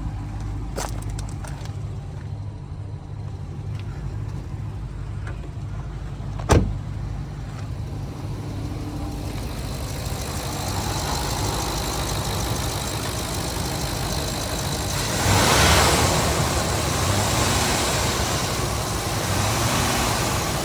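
2017 Ram 3500 pickup truck running with a steady low engine hum. A single sharp click comes about six and a half seconds in. From about ten seconds a broad rushing noise builds over the hum and is loudest around fifteen to sixteen seconds.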